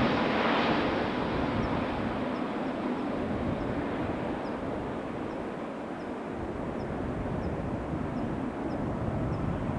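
Airbus A320 jet engines fading as the landing airliner passes and recedes, dying down into a steady distant rumble.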